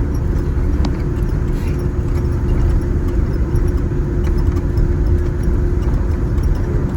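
Cabin noise of a Boeing 787-10 rolling on the ground just after landing: a steady low rumble from the engines and wheels, with a constant hum running through it.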